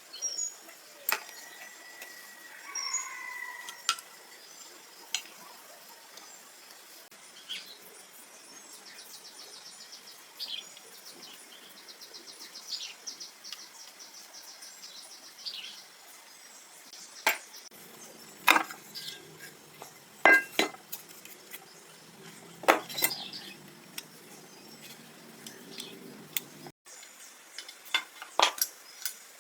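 Scattered clinks and knocks of metal tools and parts being handled during repair work, sparse at first and then louder and more frequent in the second half. A bird chirps briefly early on.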